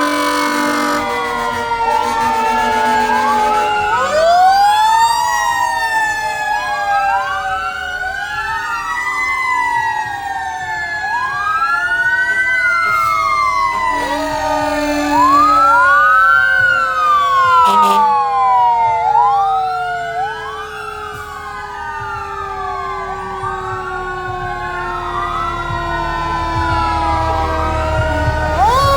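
Several fire truck sirens sound at once. Electronic sirens wail up and down about every two seconds, over another siren that slowly falls in pitch throughout. Short steady horn-like tones are heard at the start and about halfway.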